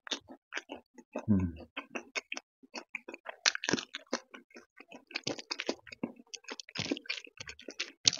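Close-up chewing of crunchy fried potato straws (aloo fry) with dal and rice: many quick, irregular crunches and wet mouth clicks.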